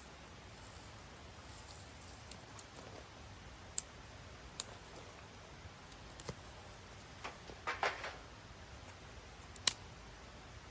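Scattered sharp clicks, one loud one near the end, and a short burst of rustling in the middle.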